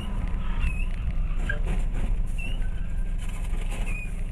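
Steady low rumble of a vehicle driving, as picked up by a dashcam, with three short high chirps spread through it.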